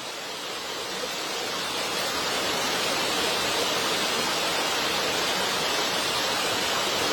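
Steady rushing hiss that grows a little louder over the first few seconds, then holds even.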